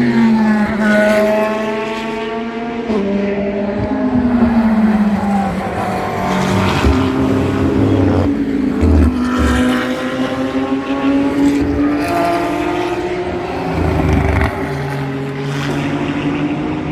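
GT race cars passing one after another at speed. Each engine note rises and then falls in pitch as the car goes by, with sudden drops in pitch at gear changes.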